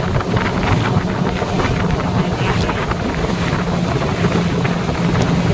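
Hangkai 18 HP two-stroke outboard running steadily at speed, pushing an aluminium boat. Wind buffets the microphone, and water rushes and knocks irregularly against the hull.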